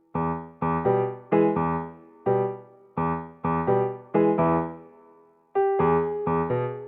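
Background music played on a piano-like keyboard: short phrases of struck notes that ring and fade, with brief pauses between phrases about two seconds in and near the middle.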